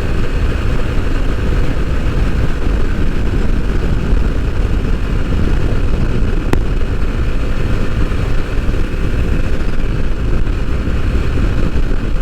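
Bajaj Pulsar NS160 motorcycle cruising at a steady speed: its single-cylinder engine runs evenly under a continuous low rush of wind and road noise.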